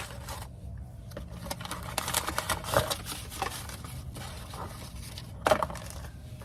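Irregular metallic clicks and short scrapes as brake pads are handled and fitted into the brake caliper bracket, with one sharper knock about five and a half seconds in.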